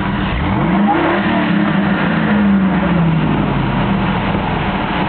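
Camaro's engine revving hard, rising sharply in pitch about a second in, then held at high revs and slowly easing off, during a smoky burnout.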